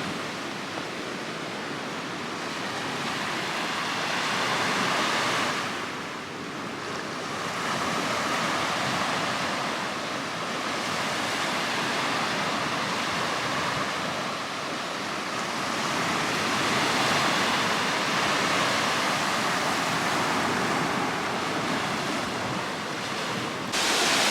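Sea waves washing onto a beach, the surf swelling and easing every few seconds. Near the end the sound jumps abruptly to a louder hiss.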